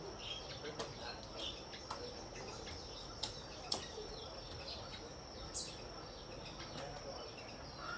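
Outdoor ambience: a steady high insect drone with scattered short bird chirps, and a few sharp clicks, the loudest a little after three and a half seconds in and about five and a half seconds in.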